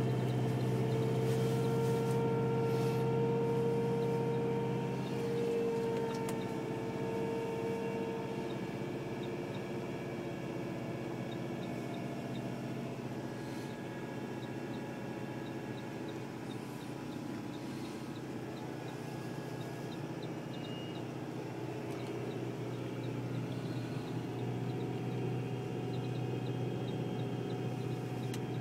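Car engine fast-idling at about 2000 rpm on its own, stone cold after a start in severe frost, heard from inside the cabin. It is a steady hum with a whine on top that fades out about eight seconds in, and the whole sound slowly eases down.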